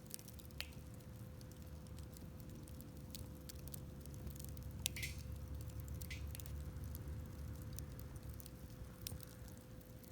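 Wood campfire burning, with scattered sharp crackles and pops over a low steady rumble, and two short hisses about five and six seconds in.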